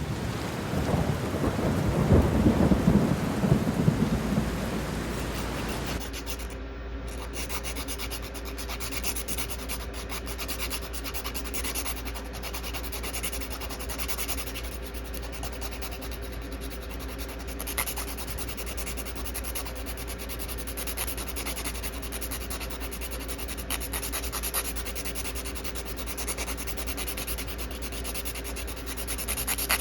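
A low rumbling noise for about the first six seconds, then steady scratchy rubbing of a fingernail being filed down for repair.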